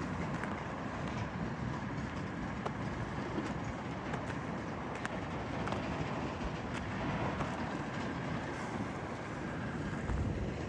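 A train running on the rails: a steady rumble with scattered light clicks.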